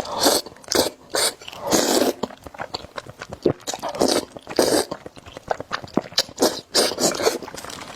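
Close-miked eating of noodles: a string of short wet slurps and chewing, with many small mouth clicks between them.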